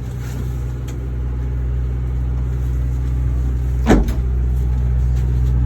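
A motor running with a steady low hum, slowly growing louder, just after being switched on. A single sharp clunk about four seconds in.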